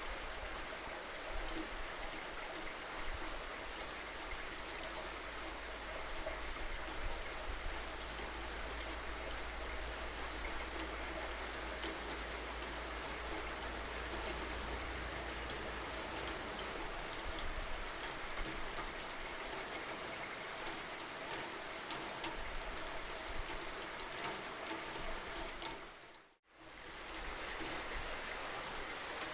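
Steady rainfall, a dense even hiss with scattered individual drop ticks. About 26 seconds in it fades out to silence for a moment and quickly fades back in.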